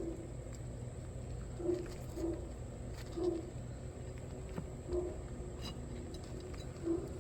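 A dove cooing: short, low notes, often in pairs, repeating every second or two.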